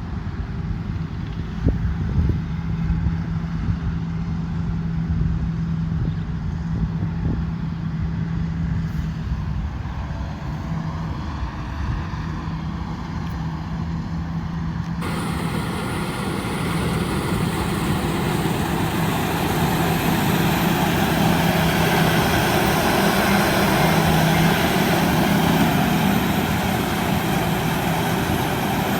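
Combine harvester's diesel engine running steadily with a low hum. About halfway through, a brighter hissing rush comes in abruptly and the sound grows a little louder.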